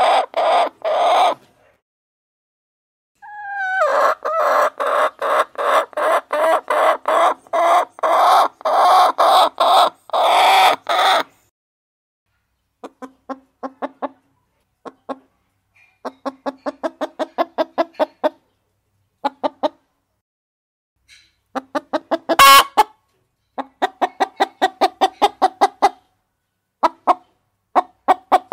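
Domestic hens clucking in runs of short, rapid, repeated calls. A loud stretch gives way to quieter runs after about 12 seconds, and there is one brief loud sound about 22 seconds in.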